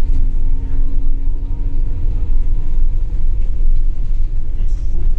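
Scania K280UB bus under way: the Scania DC9 diesel and ZF Ecomat automatic running with a heavy low rumble and a steady whine, which fades out about halfway through.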